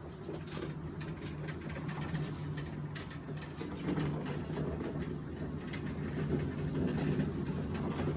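Linked wheeled freight pallets rolling across a floor: a steady rumble with a low hum and scattered clicks and rattles, stopping right at the end.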